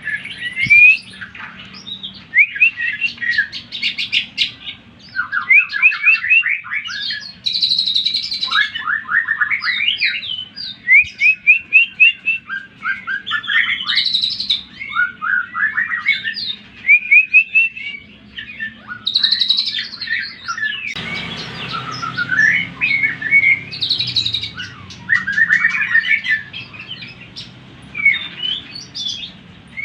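Cucak ijo (green leafbird) singing a fast, varied song of chirps, quick trills and sweeping whistled notes, with brief pauses between phrases. A background hiss comes up a little past two-thirds in. The recording is used as a 'pancingan' to rile up other cucak ijo and set them singing.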